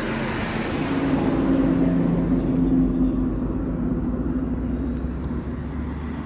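A motor vehicle's engine running steadily with road noise, its engine tone swelling slightly a second or two in.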